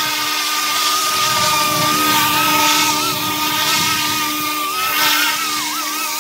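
YU XIANG F11-S scale Apache RC helicopter's electric motors and rotors running as it hovers low: a steady high whine that wavers slightly in pitch as the throttle is worked, dipping briefly near the end.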